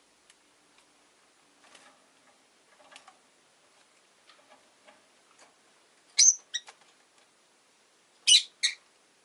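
Rosy-faced lovebird giving short, sharp, high-pitched calls: a quick pair about six seconds in and another pair near the end. Faint clicks and rustles come first.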